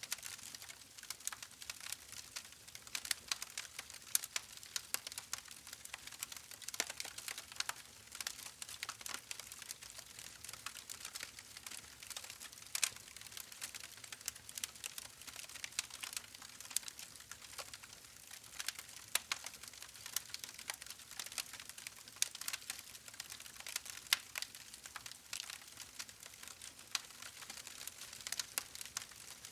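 Wood fire in a fireplace crackling: a steady stream of irregular sharp pops and snaps over a soft hiss.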